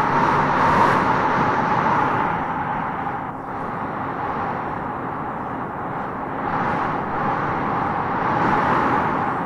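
Howling wind gusting through trees: a steady rushing with a faint whistling note in it, easing slightly about three seconds in and swelling again near the end.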